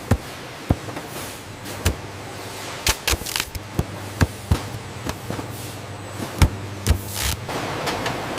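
Factory machinery: irregular sharp clanks and knocks over a steady low hum, with a hiss swelling in near the end.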